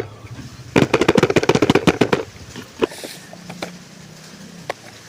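A rapid run of sharp clicks and rattles, about ten a second, lasting about a second and a half, then a few scattered clicks.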